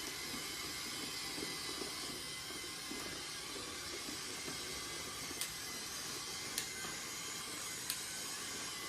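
LEGO Boost train's small electric motor and plastic wheels running steadily on the track, a low whirring hiss with a faint steady whine, broken by three sharp clicks in the second half.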